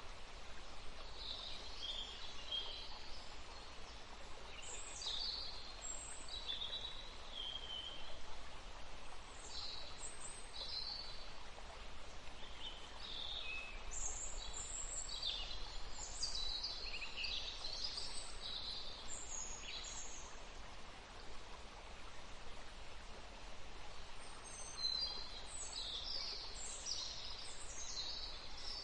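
Several wild birds singing and chirping: short, high-pitched chirps and trills in bursts, busiest in the middle and near the end, over a steady faint background hiss.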